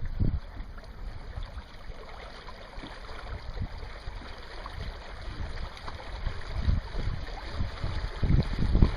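Wind buffeting the microphone in irregular gusts, strongest near the end, over a steady light hiss.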